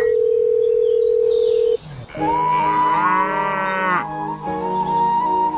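A steady electronic beep held for about two seconds, then a long, low cow moo about half a second later, likely a sound effect.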